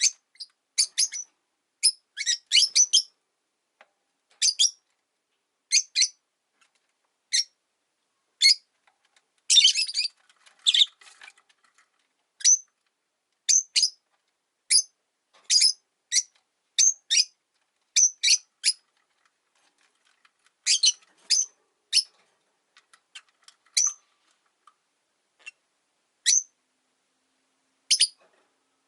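Rosy-faced lovebirds chirping: short, sharp high-pitched calls at irregular intervals, with a denser, harsher cluster about ten seconds in.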